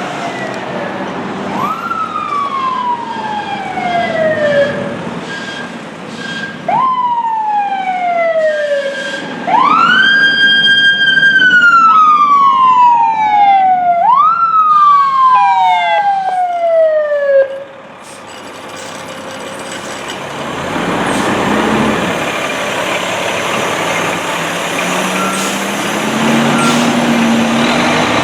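Fire truck siren winding up quickly and coasting down in long falling wails, several times over, loudest about a third of the way in, then cutting off abruptly. Heavy truck engine and road noise follow as the apparatus goes by.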